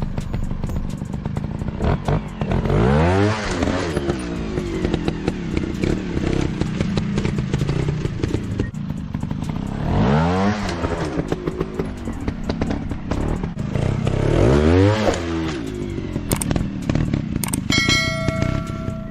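Dirt-bike engine revving up and back down three times over a rattling, clattering run.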